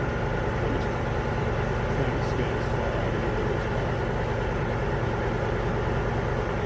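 A vehicle engine idling steadily with a constant hum.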